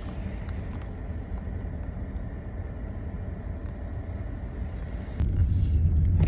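Car running on a snowy, icy road, a steady low rumble of engine and tyre noise that gets louder about five seconds in.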